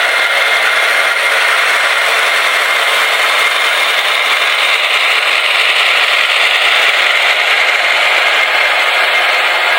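Sound decoders in several HO-scale model diesel locomotives (SD70ACe, SD70M, GE C44-9W, AC6000CW, Dash 8-40C, SD40-2) playing diesel engine sounds all at once through their small speakers, mixed with the motor and wheel noise of the running consist. The result is a steady, dense drone with almost no bass.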